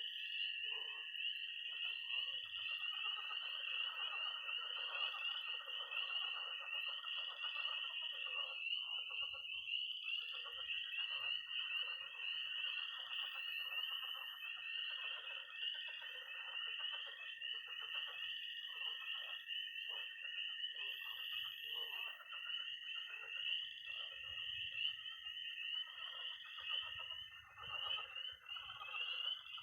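Early-spring frog and toad chorus: peeping tree frogs give steady repeated high peeps over a toad's long, even, high-pitched trill, which stops for about two seconds a third of the way through and then starts again. Underneath, pond frogs croak in a dense, overlapping chatter.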